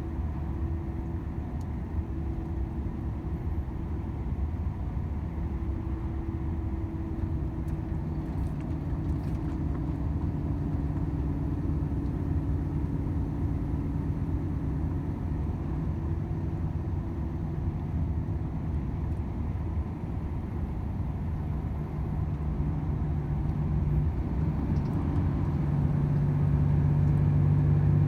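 Volvo FH 500 truck's 13-litre six-cylinder diesel running under way, a steady low drone of engine and road noise. The engine hum grows stronger and louder over the last few seconds.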